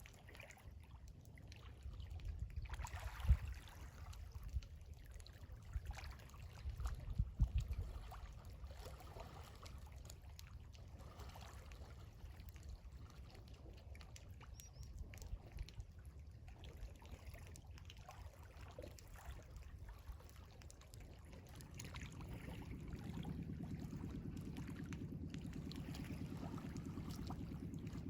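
Quiet sea ambience: small waves washing and trickling, with irregular low rumbles. About three quarters of the way through, a steady low hum joins and holds.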